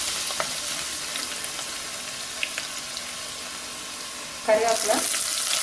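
Chopped garlic sizzling in hot oil in a clay pot, with a wooden spatula stirring and tapping now and then. About four and a half seconds in, the sizzle turns louder and a voice speaks briefly.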